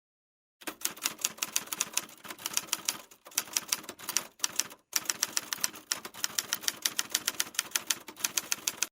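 Typewriter keys clacking fast and evenly, about eight strikes a second, with a few brief breaks. It starts and stops abruptly out of dead silence, like an added typing sound effect.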